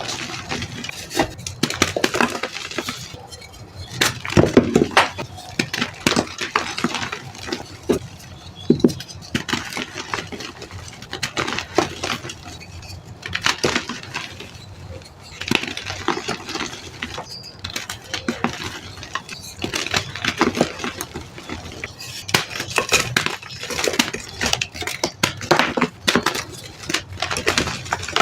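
Soft, dusty reformed gym chalk cups and slabs being crushed and crumbled: a dense, irregular run of crunches and crackles in uneven clusters with brief lulls.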